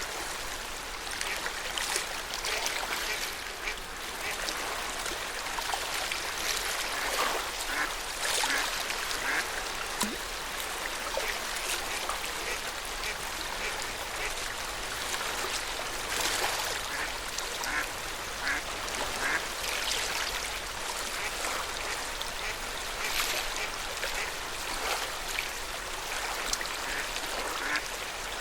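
Lake water lapping at the shore in a steady wash, with many short, sharp sounds scattered through it that could be small splashes or the calls of water birds.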